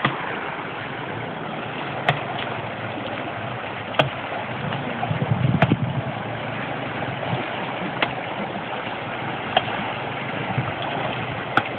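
Floodwater rushing steadily, with sharp clicks about every two seconds.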